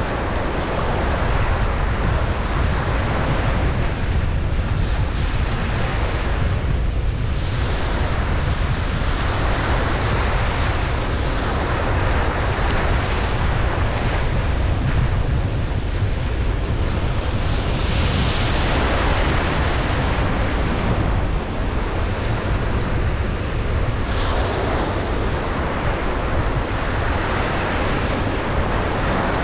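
Ocean waves breaking on a beach: a continuous wash of surf that swells and eases every few seconds, with a steady low wind rumble on the microphone.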